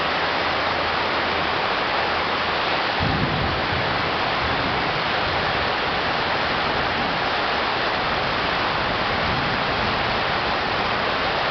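Heavy rain from a tropical thunderstorm pouring down steadily in an even, dense rush. A deeper low rumble comes in about three seconds in and carries on under it.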